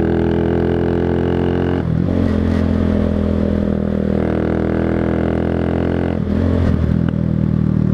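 125cc motorcycle engine running while riding, a steady note broken twice by brief dips where the pitch changes, about two seconds in and again about six seconds in, like gear changes.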